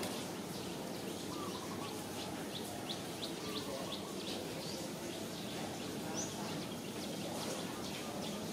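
Birds chirping in short, high notes, a quick run of them a few seconds in, over steady outdoor background noise.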